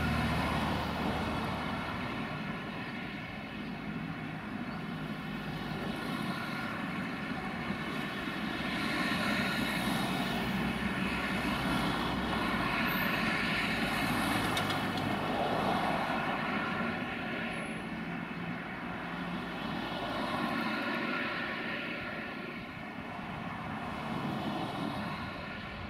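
Passenger train moving away down the line: a steady droning whine over rolling noise. It is loudest at the start, drops over the first few seconds, then swells and fades again as the train recedes.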